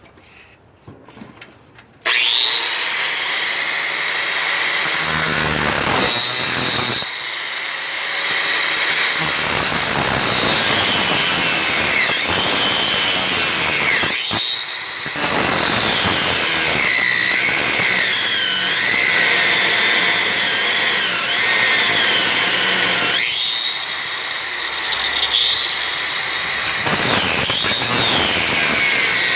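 A power tool cutting through old bolts on a snowplow, starting about two seconds in and running with a wandering high pitch as the cut loads and unloads. It lets up briefly three times.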